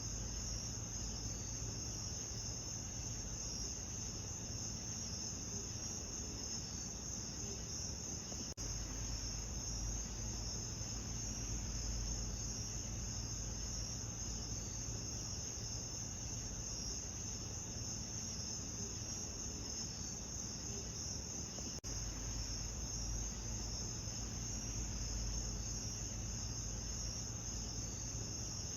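Steady chorus of trilling insects over a low rumble, with two faint clicks about 9 and 22 seconds in.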